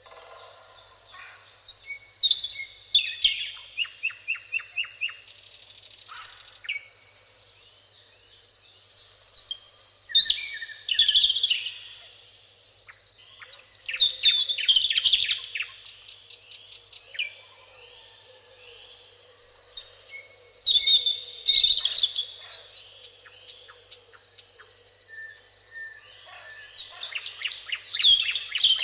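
Songbirds singing: repeated bursts of chirping, trilling song every several seconds, with quieter chirps between them, over a steady high-pitched tone.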